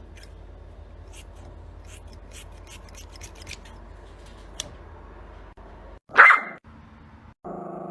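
A dog barks once, short and loud, about six seconds in, after a stretch of low hum with scattered faint clicks. A steady held tone starts near the end.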